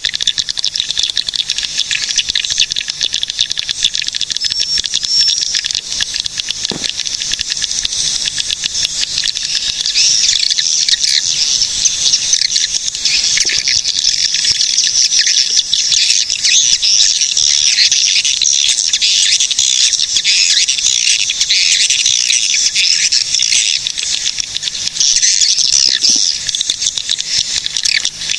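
Swiftlets calling: a dense, continuous, high-pitched chattering of rapid chirps from many birds, a little louder from about ten seconds in.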